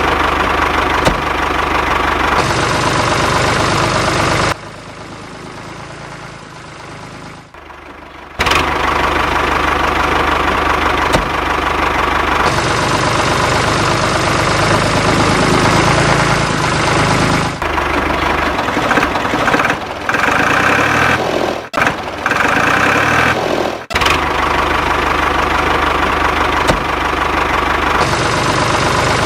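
Engine running steadily, in several abruptly cut segments, with a quieter stretch about five to eight seconds in.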